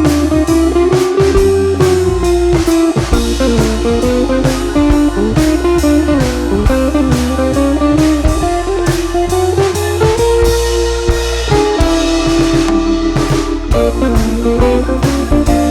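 Background music: a blues-style guitar tune over a drum kit, the guitar notes gliding up and down between pitches.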